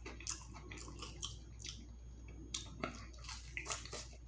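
A person chewing food close to the microphone, with irregular wet smacking and clicking mouth sounds.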